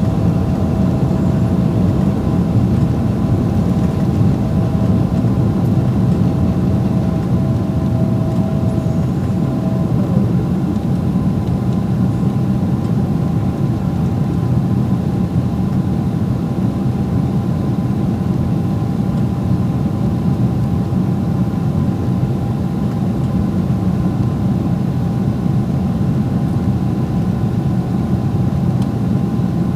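Steady cabin noise inside a Boeing 777-300ER in climb: the deep drone of its GE90 engines mixed with rushing airflow. A thin steady tone dips slightly and fades out about ten seconds in.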